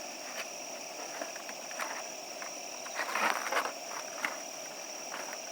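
Night insects trilling in one steady high tone, with scattered sharp clicks and a brief rustle about three seconds in.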